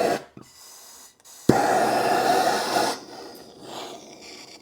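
A sudden hissing burst starts about a second and a half in and lasts about a second and a half before stopping sharply, like gas or spray let out of a nozzle.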